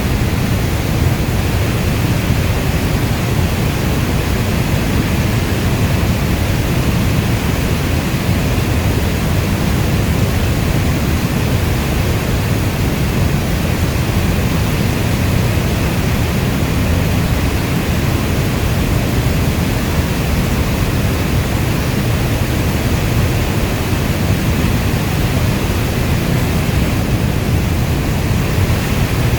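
Steady heavy rain: a dense, even hiss, strongest in the low end, with no thunder or separate drops standing out.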